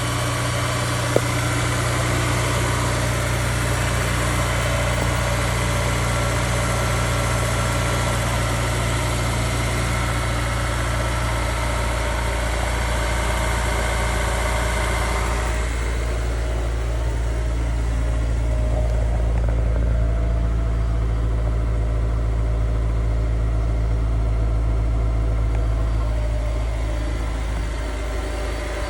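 Honda S2000's 2.0-litre four-cylinder engine idling steadily just after a cold start. A single sharp click comes about a second in, and about halfway through the higher-pitched part of the sound dies away, leaving a steady low drone.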